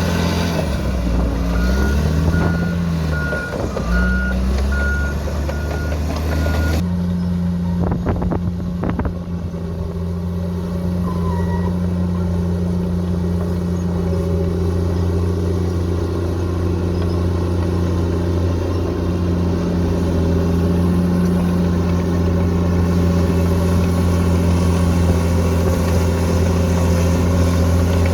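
Diesel engine of heavy earthmoving machinery running steadily, with a reversing alarm beeping at a regular pace for the first several seconds. About seven seconds in the sound changes abruptly to a steady engine drone of a machine at work.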